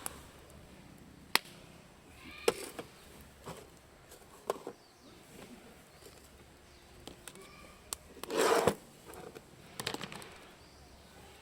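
Scattered sharp knocks and clicks of things being handled, with a louder rustling clatter about eight seconds in and a few more clicks about two seconds later.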